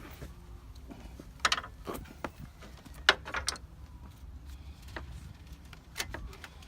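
Sharp plastic clicks and knocks from cable ties being threaded and pulled through a car's fan cowling, with a cluster about a second and a half in, a loud one about three seconds in, and another near the end.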